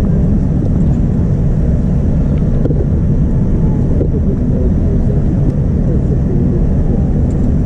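Steady low rumble of cabin noise inside a Boeing 787-9 airliner, with no breaks or changes.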